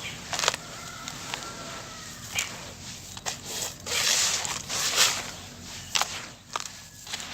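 Dry sand-cement lumps being crushed and crumbling: a string of sharp crunches and cracks, with grainy hissing of falling grit about four and five seconds in.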